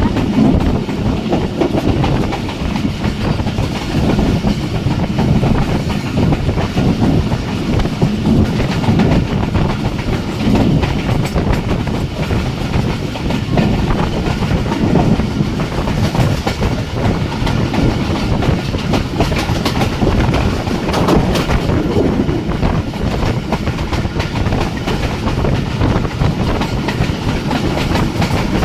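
Jaffar Express passenger train running at speed: a steady, loud rumble of wheels on track, with the clickety-clack of wheels passing over rail joints.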